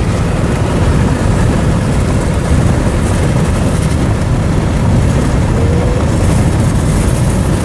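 Loud, steady rumble and wind noise of a moving vehicle, with no distinct engine note.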